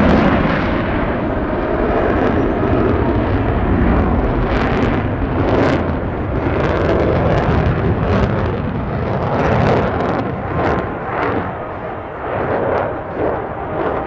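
Lockheed Martin F-35A Lightning II's single F135 turbofan engine rumbling with crackle just after a loud pass, slowly fading as the jet moves away.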